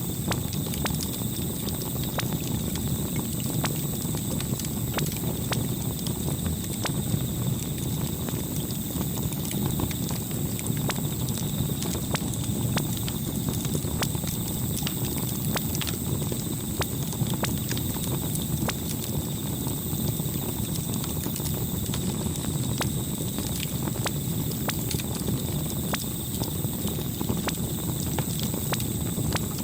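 Campfire burning: irregular sharp crackles and pops of burning wood over a steady low rush of flames.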